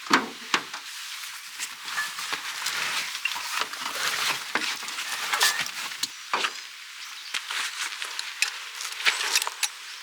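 Irregular rustling with many sharp clicks and knocks, the loudest knock right at the start.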